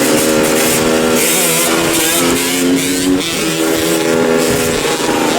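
125 cc two-stroke supermoto motorcycle engine revving under way, its pitch rising and dropping several times, with a sharp dip and climb about three seconds in.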